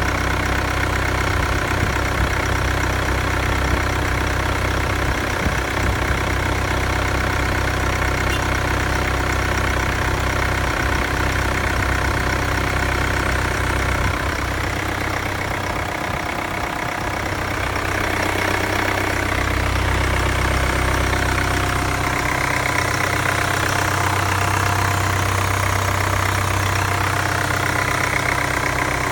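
2018 Mercedes-Benz GLA 200 d's 2143cc four-cylinder turbo diesel engine idling steadily. About halfway through the sound dips for a couple of seconds, then comes back a little fuller.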